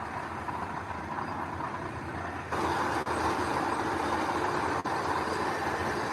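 Heavy earth-moving machinery running, a steady engine rumble that gets louder about two and a half seconds in.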